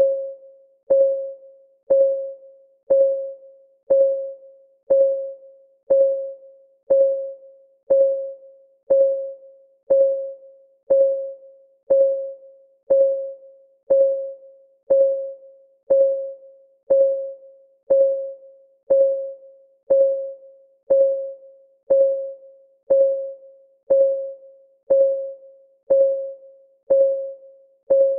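Countdown-timer clock ticking: a short pitched tick once a second, each fading quickly, in an even, unbroken rhythm.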